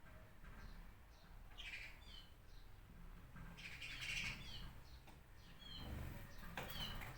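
Songbirds chirping: short, high, falling chirps in a few brief clusters, over a low background rumble.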